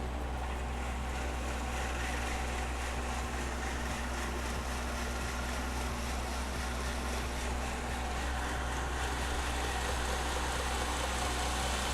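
Workshop fans running: a steady rushing air noise over a constant low hum that does not change.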